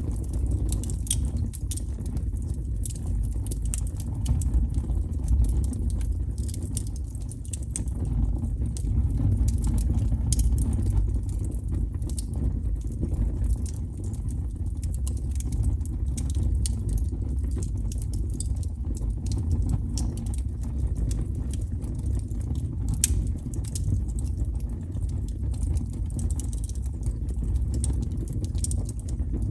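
Wood fire crackling, with frequent small pops and snaps over a steady low rumble, and one sharper pop late on.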